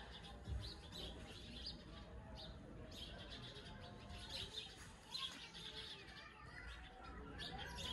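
Faint birds chirping in the background, short high chirps scattered throughout with a few gliding calls near the end.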